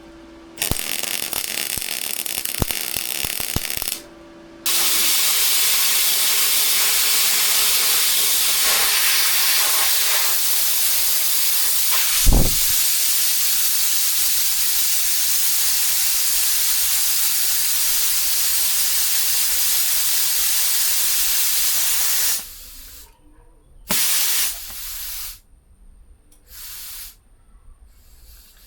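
Welding arc on a steel exhaust downpipe: a few seconds of crackling bursts, then one long steady sizzling bead of about seventeen seconds that stops abruptly, followed by a few short tacks near the end.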